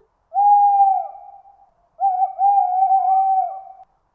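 Owl hooting: two long, steady, soft hoots, the second slightly broken up.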